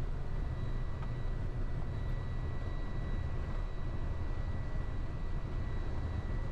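Steady low rumble of a delivery truck's engine and road noise heard from inside the cab while driving, with a faint steady high-pitched tone over it.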